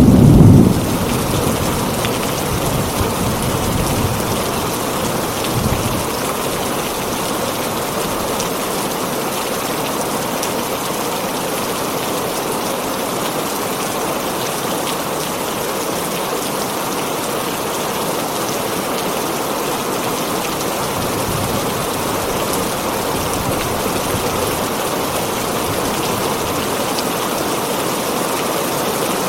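Heavy rain drumming on a tin roof in a steady, even hiss. A loud low rumble of thunder opens it and dies away within about a second, with fainter rumbles a few seconds later.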